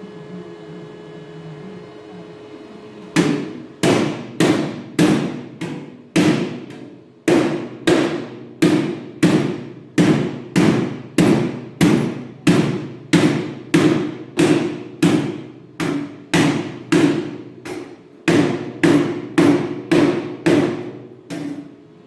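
A hammer striking metal again and again, nearly two blows a second, each blow ringing briefly. The blows start about three seconds in, after a low hum, pause briefly twice and stop just before the end.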